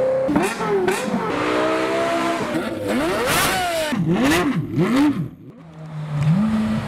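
Supercar engine being revved, its pitch rising and falling again and again, with three quick throttle blips about four seconds in, a brief drop-off, then steadier running near the end.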